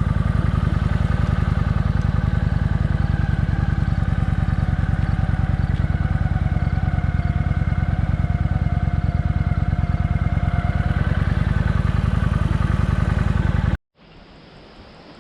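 Kawasaki Vulcan motorcycle engine running steadily at cruising speed. It cuts off suddenly near the end, giving way to a much quieter outdoor hiss.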